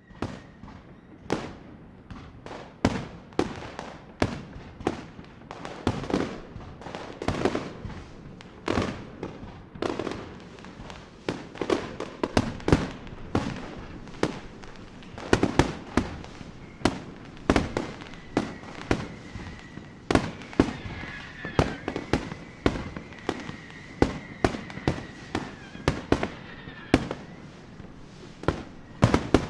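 Fireworks display: a dense, irregular run of sharp bangs, one to three a second, each with a short tail. A wavering high whistle runs over the bangs through the latter part.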